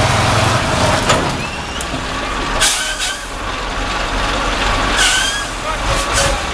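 Heavy truck's engine running, with two short hissing bursts carrying a brief squeal, about two and a half and five seconds in.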